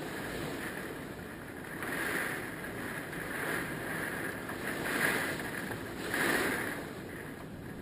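Hurricane wind blowing in gusts, swelling and easing about four times.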